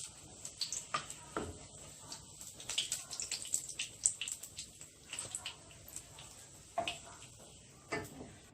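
Oil sizzling in a shallow pan as chicken hash cakes shallow-fry, with scattered irregular crackles and pops over a steady hiss. A single sharp click sounds right at the start.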